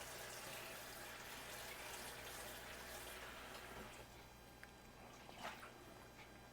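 A pot of oxtail stew with lima beans bubbling faintly over raised heat, with a few small pops near the end.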